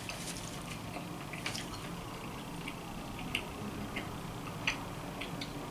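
Someone eating: faint scattered clicks and small wet smacks, about half a dozen sharp ones, over a low steady hum.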